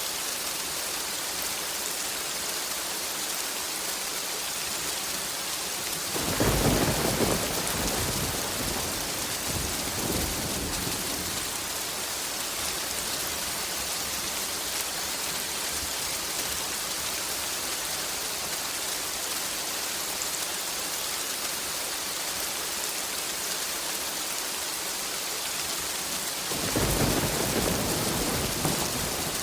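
Steady rain hissing, with two rolls of thunder: one rumbling in about a fifth of the way through and fading over several seconds, another starting near the end.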